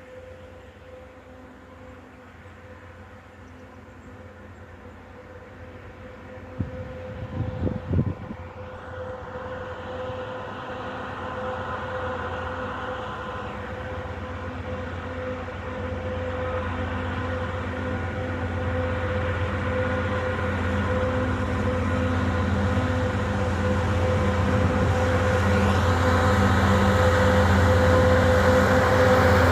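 Diesel engines of a 3TE116U three-section freight locomotive running under load as it approaches with a heavy freight train, a steady hum that grows louder throughout. A few brief low thuds come about seven to eight seconds in.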